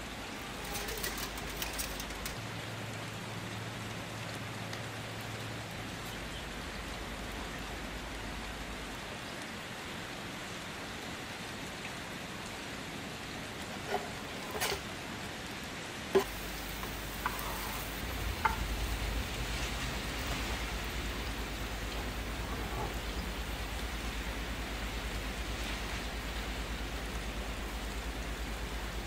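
Food frying in hot oil in a pan: a steady crackling sizzle, with a few sharp clicks and knocks a little past the middle.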